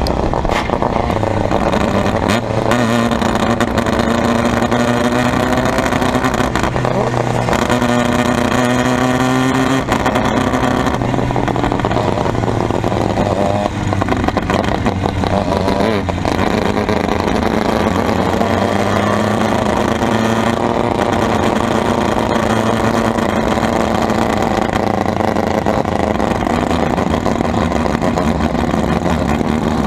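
Formula Mazda race car's engine at racing speed, pitch climbing as it revs up through the gears. Several times the revs drop suddenly at a gearchange or a lift for a corner, and near the end there is a long, slow climb.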